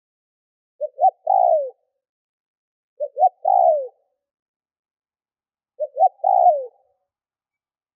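Spotted dove (cu gáy) decoy bird cooing: three phrases, each two short notes followed by a longer falling coo, repeated about every two and a half seconds. It is the urging coo used to draw in wild doves.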